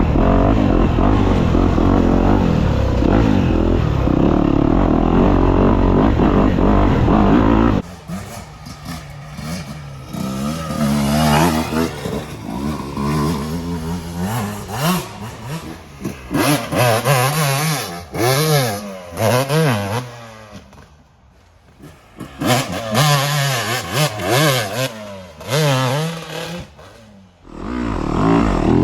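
Dirt bike engine revving, its pitch rising and falling as the throttle opens and closes, with short lulls when it drops off. About eight seconds in the sound changes abruptly from a dense, steady, loud engine sound to a thinner one.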